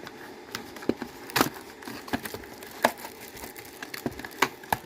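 Scattered clicks and knocks of hands handling a solar inverter's casing, over the steady whir of its small cooling fans, which make the noise the owner calls factory noise.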